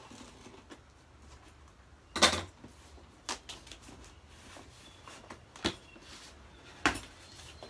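Parts and packaging being handled while unpacking a bike's shipping box: a few sharp knocks and clatters, the loudest about two seconds in, with light rustling between.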